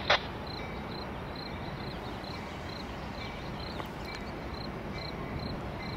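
Steady low rumble of a diesel-hauled passenger train rolling slowly toward the listener, with a faint high chirp repeating about three times a second. A short sharp sound comes right at the start.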